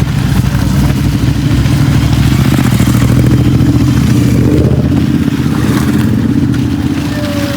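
Royal Enfield GT 650's parallel-twin engine running loud and steady through an aftermarket twin exhaust system.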